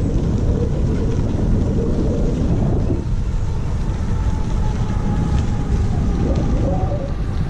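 Wind buffeting the microphone during a bicycle ride: a steady low rumble.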